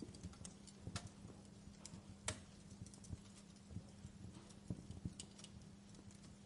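Wood fire crackling in a fireplace: faint, irregular pops and snaps, the sharpest about two seconds in, over a steady low hum.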